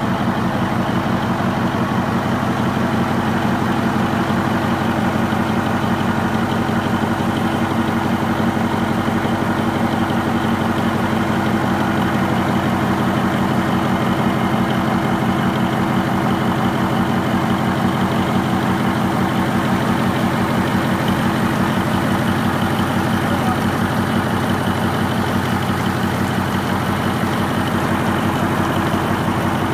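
Baudouin marine diesel engine, coupled to a Masson gearbox, running steadily at a constant speed with an even stream of firing pulses.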